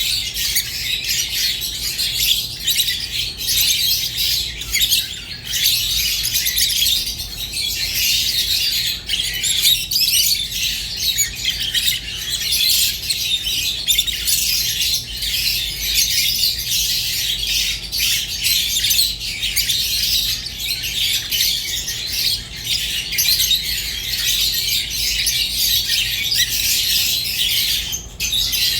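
Rosy-faced and Fischer's lovebirds chirping continuously in a dense, high-pitched chatter with no pauses.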